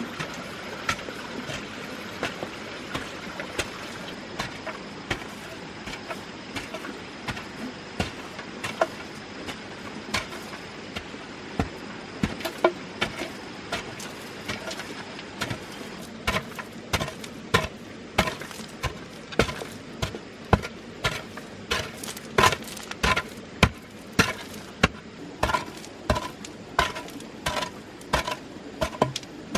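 Repeated chopping blows of a knife blade into wood, each with a short ring. They come irregularly at first, then settle into a steady run of about two a second from about halfway in, over a steady background hiss.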